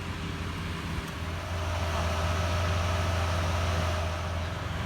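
A car's engine and road noise: a steady low drone that grows louder about a second and a half in and eases off near the end.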